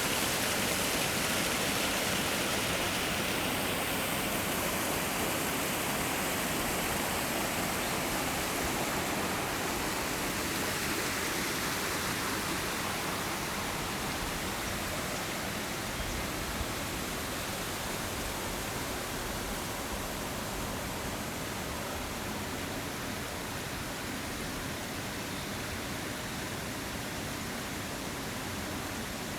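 Forest stream or small waterfall rushing steadily, growing slightly fainter over the stretch.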